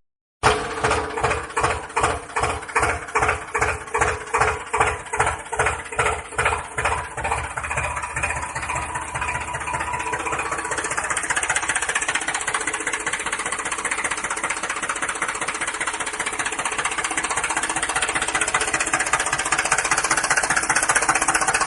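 Small motor running in a homemade model tractor. It pulses about twice a second at first, then speeds up into a steady buzz after about nine seconds.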